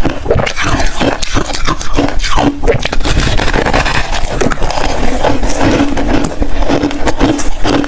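Close-miked crunching of hard freezer ice being bitten and chewed: a dense, continuous run of crackling crunches, with a faint steady low hum underneath.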